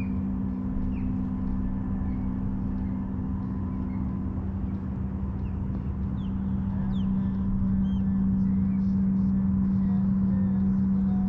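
A boat motor running steadily on the river, growing louder about two-thirds of the way through, with small birds chirping over it.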